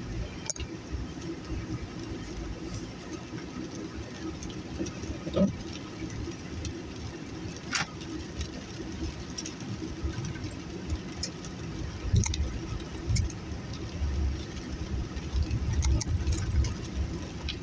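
Car cabin noise: a steady low engine and road rumble with scattered sharp ticks, swelling louder about twelve seconds in and again near the end.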